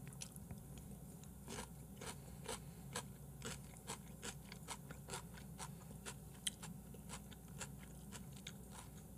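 Close-miked chewing of raw beef tartare (yukhoe): a run of soft, wet mouth clicks, about two a second, over a low steady hum.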